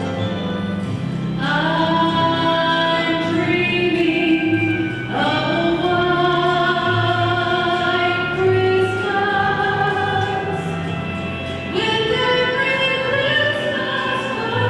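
A choir singing long held notes in phrases, with new phrases beginning about a second and a half, five, and twelve seconds in.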